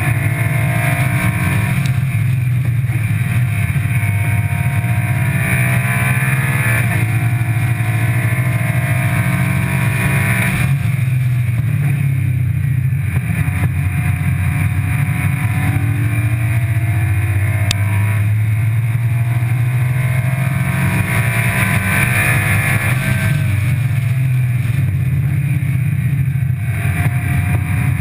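Car engine driven hard on a track, revs climbing and dropping back at several gear changes, under a steady rush of wind and road noise on the outside-mounted microphone.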